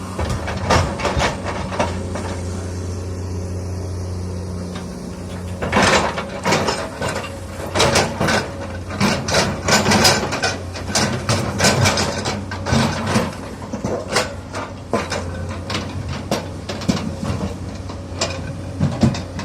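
Komatsu PC200 hydraulic excavator's engine running steadily. From about six seconds in it is joined by a rapid, irregular series of knocks and clatters, boulders striking stone and the steel bucket as they are placed.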